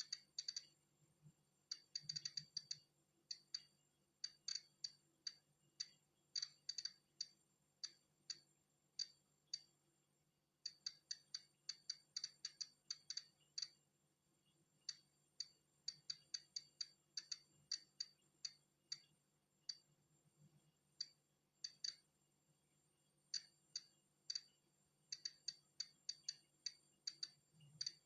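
Polon EKO-C digital Geiger counter clicking as it counts natural background radiation: sharp single clicks at irregular, random intervals, sometimes several in quick succession, with a lull of about a second about a third of the way through.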